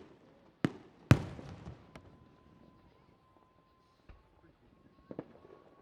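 Fireworks shells bursting: two sharp, loud bangs about half a second apart near one second in, the second followed by a crackling tail, then a few fainter booms.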